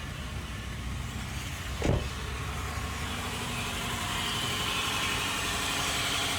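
2010 Toyota Camry four-cylinder engine idling rough and shaking from a misfire in one cylinder, which turns out to be a failed ignition coil. A single thump about two seconds in.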